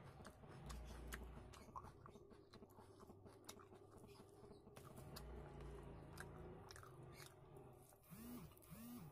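Faint close-up chewing and wet mouth clicks of someone eating rice and curry by hand, with the soft squish of fingers mixing rice on a steel plate. Two brief squeaks come near the end.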